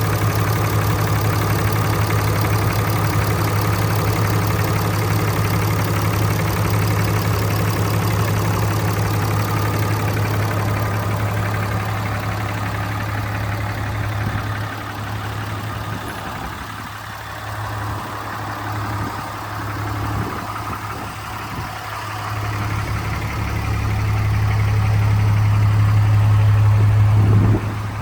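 2011 Ram 3500 pickup's engine idling steadily with a low hum, dropping back somewhat about halfway through and growing louder again toward the end.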